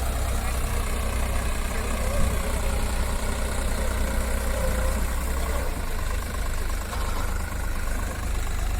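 Diesel engine of heavy farm or earthmoving machinery running steadily at low revs, its low hum shifting about six seconds in.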